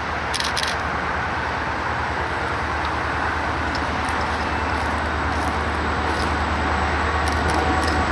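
Train running with a steady low rumble, growing slowly louder toward the end as it draws nearer.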